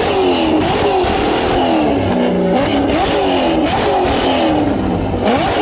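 Car engine revving again and again, its pitch climbing sharply and falling back several times.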